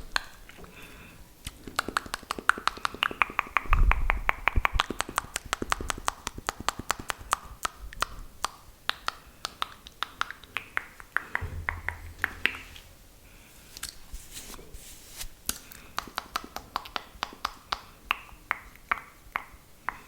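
Close-miked wet mouth sounds: rapid clicks and smacks of the tongue and lips, as in spit-painting ASMR. There is a brief low rumble about four seconds in and another near twelve seconds.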